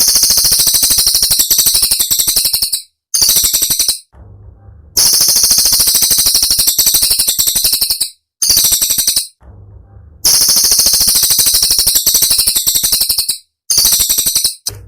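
Cililin songbird singing very high, fast, rattling trills, a sharp 'tembakan' (burst) song. It comes in bursts about one to three seconds long, broken by brief pauses.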